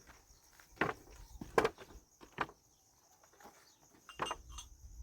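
Four sharp knocks, unevenly spaced over about three and a half seconds, the second one the loudest.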